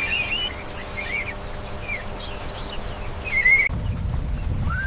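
Birds chirping in short calls over faint outdoor ambience; about three and a half seconds in, the background switches to a low rumble, and a rising animal call begins right at the end.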